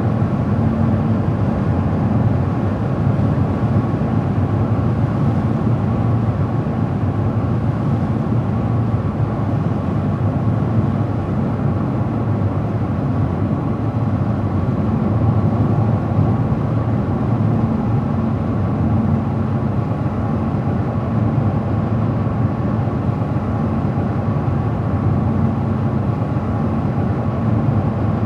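A car driving at a steady speed: an even low rumble of engine and tyre noise on the road, unchanging throughout.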